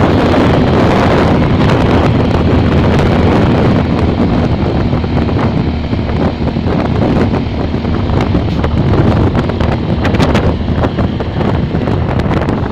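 Wind buffeting the microphone of a moving motorcycle, a loud steady rush with the motorcycle's engine running low beneath it.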